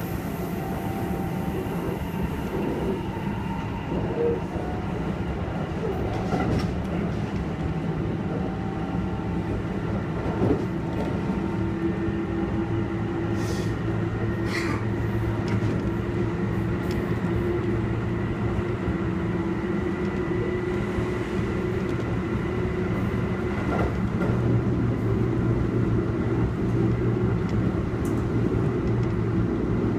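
Kintetsu 1233 series electric train running, heard from inside the car: steady rumble of wheels on rail with a steady hum, a few short knocks along the way, getting slightly louder over the span.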